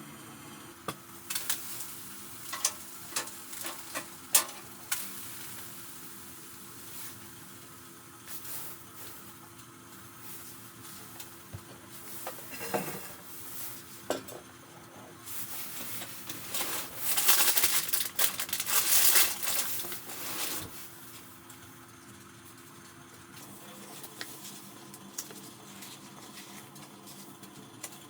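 Cooking sounds: utensils clicking against cookware in a run of sharp taps, then a louder stretch of sizzling around the middle.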